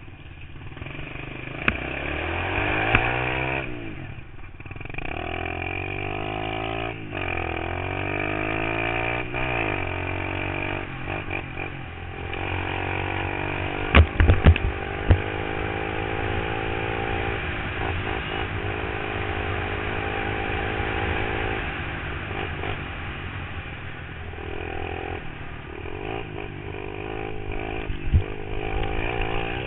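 Pit bike engine revving as it is ridden, its pitch climbing and dropping again and again through the gears. A few loud thumps come about fourteen seconds in.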